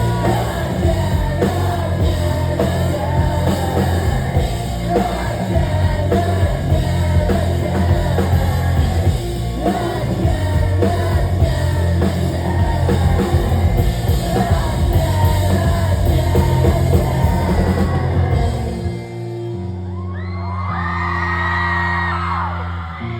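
Live rock band playing with a singer, heard in a large hall. About nineteen seconds in, the drums and full band drop out, leaving a held chord while the crowd yells and whoops.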